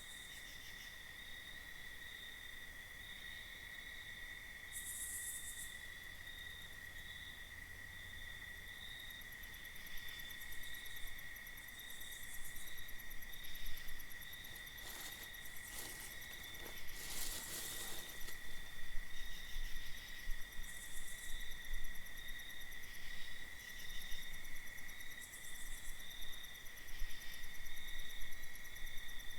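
Night insects calling: a steady, unbroken high trill that never pauses, with short higher buzzing bursts coming and going, and a few seconds of faint crackling rustle about halfway through.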